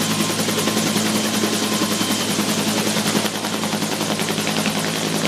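Firefighting helicopter's rotor and turbine engine running steadily and loudly, with a fast, even beat from the rotor blades.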